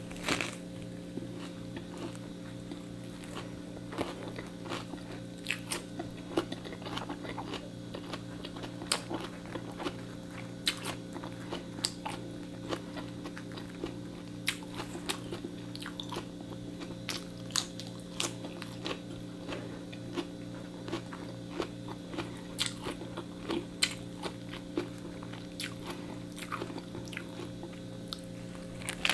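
A person biting and chewing a toasted sandwich with lettuce, miked close on a lapel microphone: irregular crisp crunches and mouth clicks over a steady low hum.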